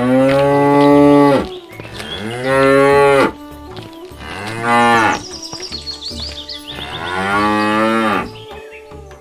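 Cows mooing: four long, drawn-out moos one after another, each bending in pitch.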